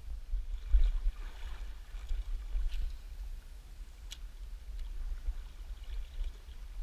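Outdoor riverside ambience: a steady low rumble with a faint rush of water and a few sharp clicks.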